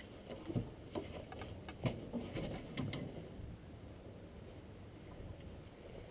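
Scattered light clicks and knocks of hand tools and metal parts being handled, busiest in the first three seconds and sparser after.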